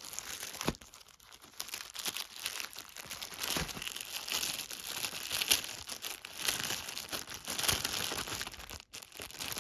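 Gift wrapping crinkling and rustling as it is handled and opened by hand, a dense run of crackles with a brief pause near the end.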